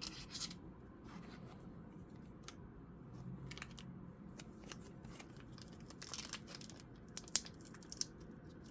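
Crinkling and tearing of a Pokémon booster pack's foil wrapper, with scattered clicks of cards being handled. Short irregular crackles, a louder patch about six seconds in and a sharp click about a second later.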